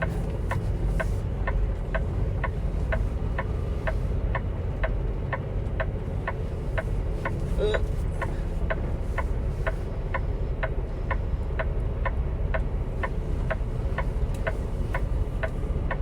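Inside a semi truck's cab during slow reversing manoeuvres: the diesel engine runs low under a steady ticking, about two and a half ticks a second. A brief squeak sounds about halfway through.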